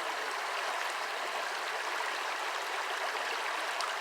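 Shallow brook babbling over stones: a steady, even rush and gurgle of running water.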